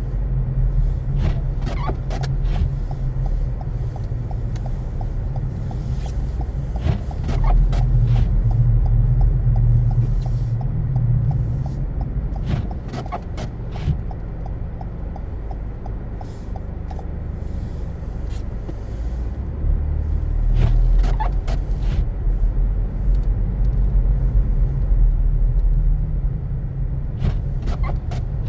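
Car driving on a snow-covered road: a steady low rumble of engine and tyres, with scattered short clicks and knocks and a run of small, evenly spaced ticks through the first half.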